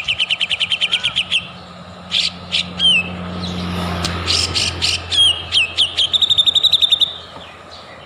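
White-rumped shama singing: a fast trill of short repeated notes, then sharp calls and down-slurred whistles, and another fast trill near the end.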